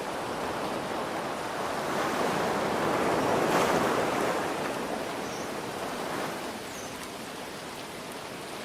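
An ocean wave swells to a peak about three and a half seconds in and washes back out, over a steady hiss of rain.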